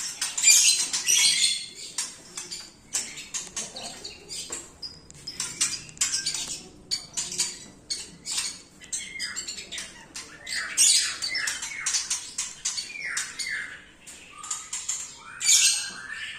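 Young white-rumped shama (murai batu) chicks calling with harsh squawks and chirps, mixed with many sharp clicks, and a run of short pitched notes in the second half.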